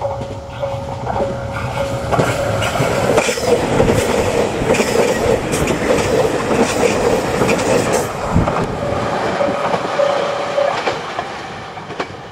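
JR Shikoku 2700 series diesel limited-express train passing through a station at speed: engine noise and wheels clacking over the rail joints, loudest in the middle and dying away near the end. A bell-like ding repeats a little under twice a second at the start and again near the end.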